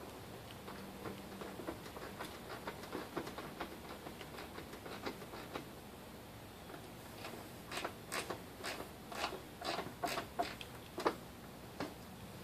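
Faint, irregular clicks and ticks of a small Torx driver turning a headlight's top adjuster screw. The clicks come thicker and a little louder in the second half.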